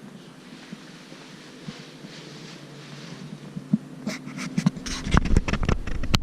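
Steady mechanical hum. About four seconds in, a run of sharp knocks and rattles starts, and a heavy low rumble joins it shortly after.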